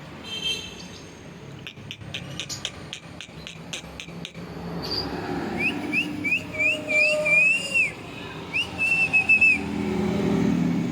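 A pet parrot whistling: a row of about six short looping whistled notes, then a longer warbling whistle. Before them comes a quick run of clicks, about five a second.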